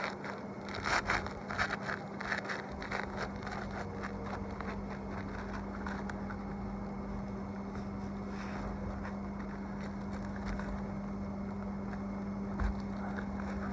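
Scraping and tapping of work on roof shingles, clustered in the first few seconds with a few more later, over a steady low hum.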